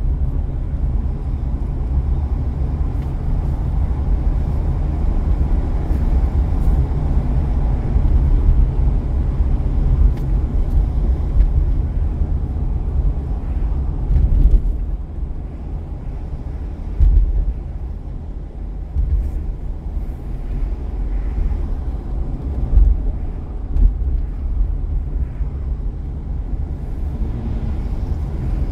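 A car being driven on city streets: a steady low rumble of road and engine noise, which eases off about halfway through and then builds again.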